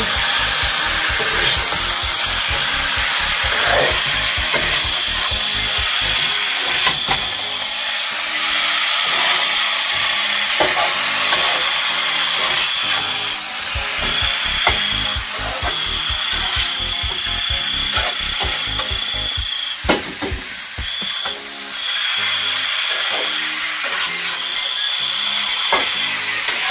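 Food frying in a pan with a steady sizzle, over background music with a steady beat.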